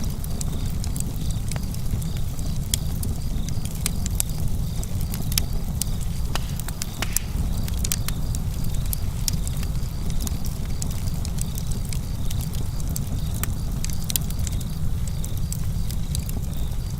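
Campfire burning, with a steady low rumble and many irregular sharp crackles and pops from the burning wood.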